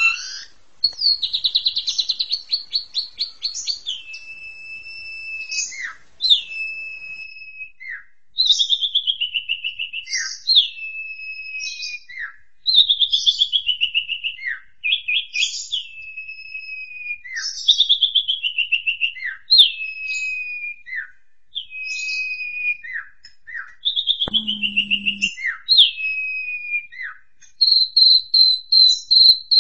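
Pied starling (jalak suren) singing: phrases of a rapid whistled trill sliding down in pitch, each closed by a sharp swooping note, repeated about every two seconds. Near the end a fast, even, high pulsing trill starts.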